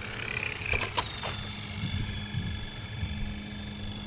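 Electric RC car's motor whining, its pitch falling over the first second and then holding steady, with three quick sharp clicks about a second in.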